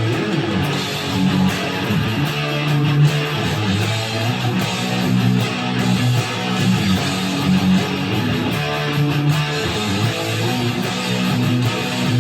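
2017 Gibson SG Standard electric guitar with '57 Classic humbucker pickups, played amplified: a riff of low notes and strummed chords that change every half second to a second.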